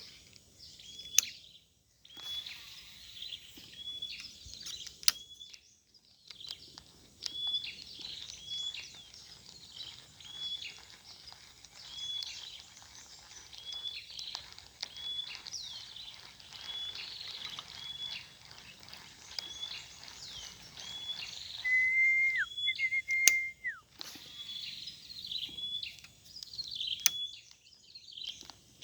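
A bird calling over and over, a short high chirp about once a second, with a few sharp clicks. Two steady whistled notes, each ending in a quick drop, come about two-thirds of the way through.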